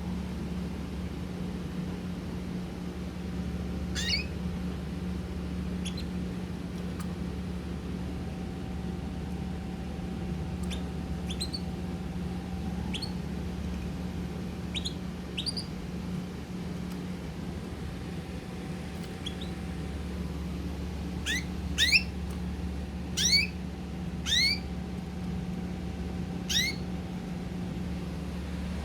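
Pet birds giving short, sharp chirps that fall steeply in pitch. They are sparse at first and come more often and louder in the second half, over a steady low hum.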